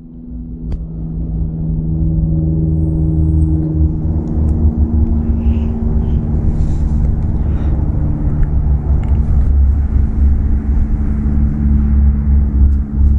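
A steady mechanical rumble with a low motor hum whose pitch shifts slightly, fading in at the start.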